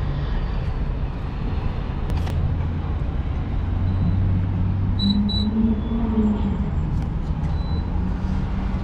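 Steady low rumble of idling vehicles, with a sharp click about two seconds in and two short high beeps from the gas pump's card reader about five seconds in.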